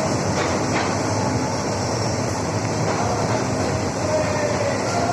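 Train running along the track: a steady, even noise of wheels and carriage in motion.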